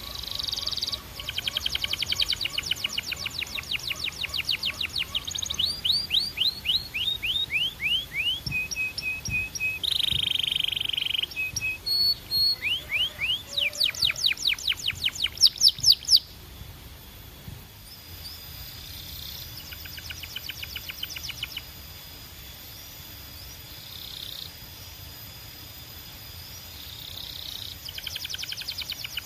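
Canary singing a long song of fast trills, rolls and quick falling sweeps. It is loud for the first half, then softer and more distant, and picks up again near the end.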